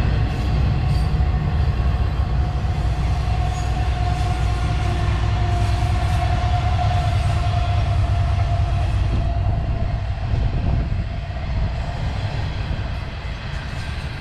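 CSX intermodal freight train rolling past: a heavy steady rumble of wheels on rail, with a thin ringing tone over it through the middle that fades out, the whole easing a little near the end.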